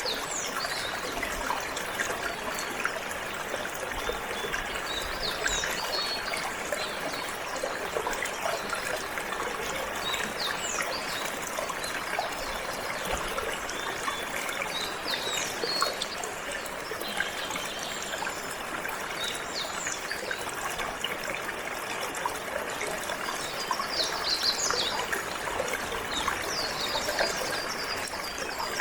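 Water flowing and trickling steadily, with a canary giving short high chirps now and then, more of them in a burst near the end.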